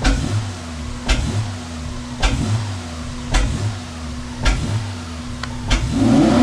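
Honda Accord's 3.0 V6 running, with a sharp knock about once a second over a steady low hum. Near the end a louder, wavering drone starts.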